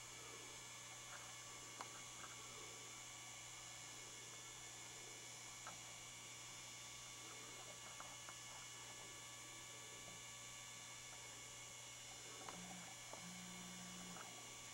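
Olympia Beer waterfall motion sign running: a faint, steady low electrical hum with a few soft ticks.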